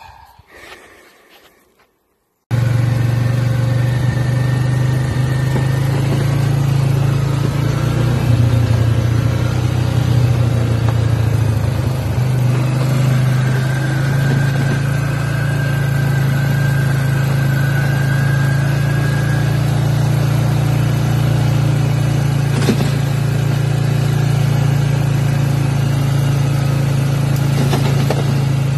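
A vehicle engine running steadily with a low hum, cutting in abruptly about two and a half seconds in, with small shifts in its note partway through.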